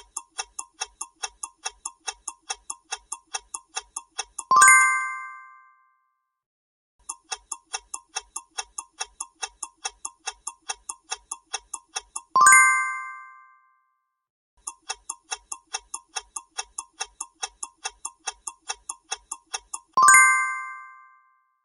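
Countdown-timer sound effect: quick clock ticks, about four a second for some four and a half seconds, ending in a loud bell-like ding that rings out. This happens three times, with short pauses between.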